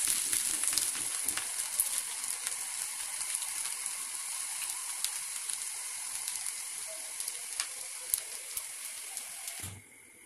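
Vegetable fried rice sizzling in a hot kadai, a steady high hiss with scattered crackles that slowly fades, then cuts off shortly before the end.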